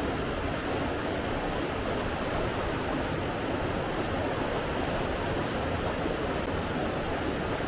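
Steady rush of flowing water, even throughout with no surges or separate sounds.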